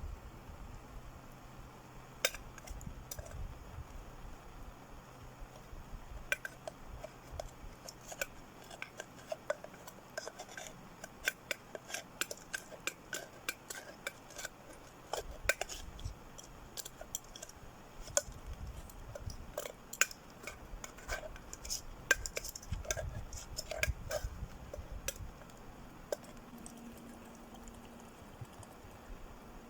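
Metal camp cookware clinking and scraping: irregular small clinks, thickest through the middle.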